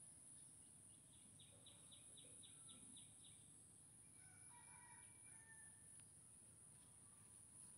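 Near silence with faint outdoor ambience: a distant bird gives a quick run of about nine falling chirps about a second in, then a few fainter calls around the middle.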